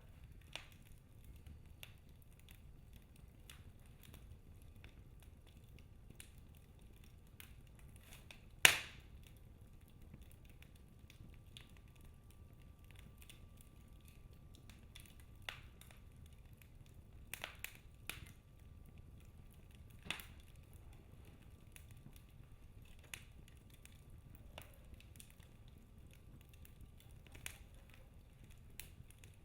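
Wood fire burning in a fireplace: a low steady rumble of flames with scattered crackles and pops, one much louder pop about nine seconds in.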